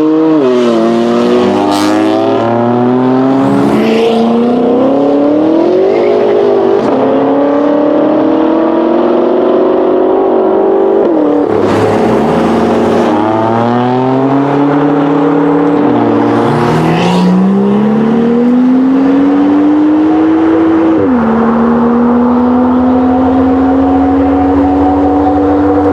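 BMW performance car engine accelerating hard through the gears. Its pitch climbs steadily, then drops sharply at each of several upshifts.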